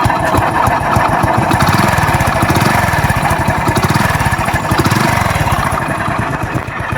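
Hero Passion Pro BS4 motorcycle's single-cylinder engine running, with a fast even beat and revved up a couple of times. The bike is due a full engine overhaul.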